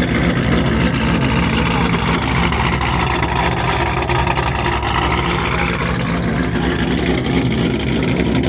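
Chevrolet Camaro ZL1's V8 running at low revs as the car creeps along at walking pace, a steady, deep, loud exhaust note.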